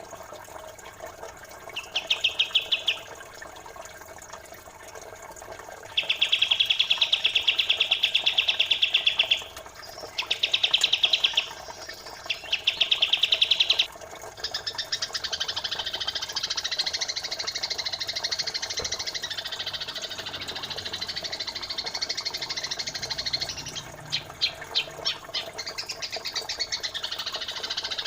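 Songbird masteran song of kapas tembak and Eurasian tree sparrow. It opens with four bursts of very fast, buzzing trills, a couple of seconds each, then turns to continuous high chattering with a quick rattling run about three quarters of the way through. A steady rush of flowing water runs underneath.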